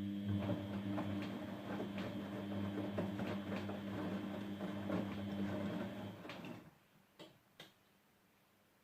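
Grundig GWM4762WE20 washing machine running a steady electric hum with irregular crackling over it during its rinse cycle; it cuts off about six and a half seconds in, and two short clicks follow.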